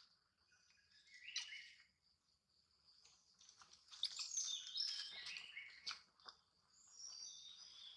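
Birds chirping faintly: short runs of quick high notes about a second in, and again from about four seconds on. A faint steady high tone sits under the first few seconds.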